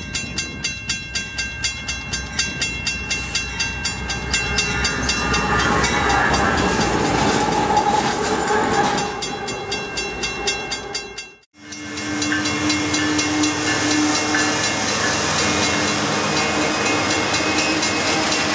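Diesel locomotives, a pair of GE AC4400CWs running light, approaching along the line; their running noise pulses about three times a second and grows louder about four seconds in. After an abrupt cut past the middle comes a different recording: the steady running noise of a freight train passing close by, with a held low tone.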